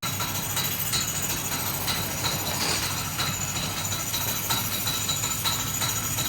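High-pressure water spraying steadily from a self-serve car wash wand, an even hiss.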